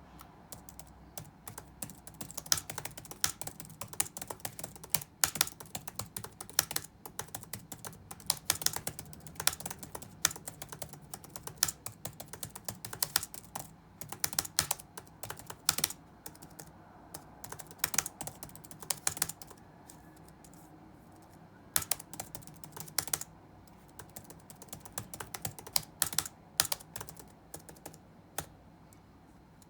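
Typing on a computer keyboard: bursts of rapid key clicks broken by short pauses, over a faint steady low hum.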